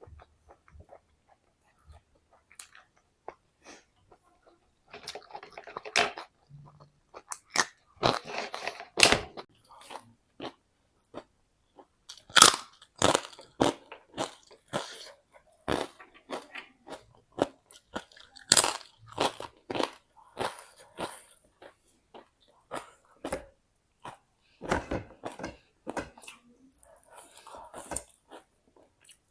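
A person biting and chewing crisp food close to the microphone, with irregular sharp crunches that are few at first and come thicker and louder from about a third of the way in.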